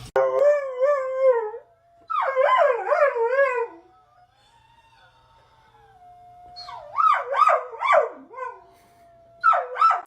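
A dog howling in four wavering, warbling bursts with short pauses between them.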